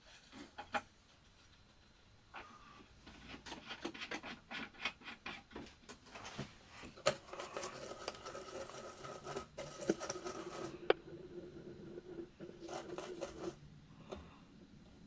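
Scratching and irregular small clicks of small tools working on an electronics bench, with a sharp tick or two. A steady hum runs from about halfway in and stops a little before the end.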